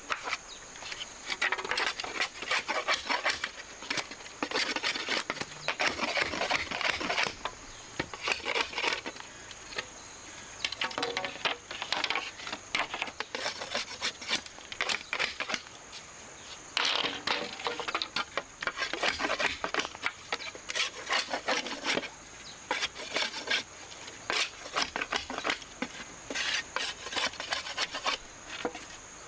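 Repeated scraping and rubbing strokes in irregular runs of a few seconds each, over a steady thin high tone.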